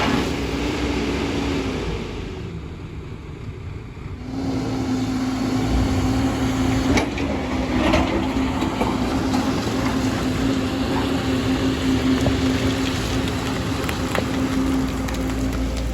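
Excavator engine running steadily. Early on it drops away for a couple of seconds, then comes back up, with a few short knocks around the middle.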